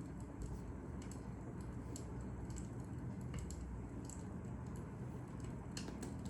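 Fire crackling: scattered, irregular sharp pops and snaps over a steady low rumble.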